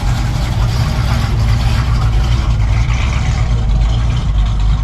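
Engine of a classic car or hot rod running with a steady low rumble.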